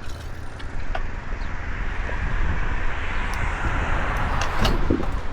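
Wind buffeting the microphone on a moving road bike, with a rushing road noise that swells from about two seconds in.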